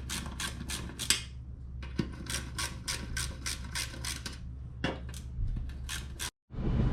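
Hand ratchet wrench clicking as it turns a bolt, about five clicks a second in two runs with a short pause between.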